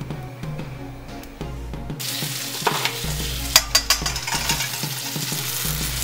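Cherry tomatoes and chopped garlic sizzling in a hot pan, the sizzle getting much louder about two seconds in. A few sharp clicks of the spatula against the pan come in the middle.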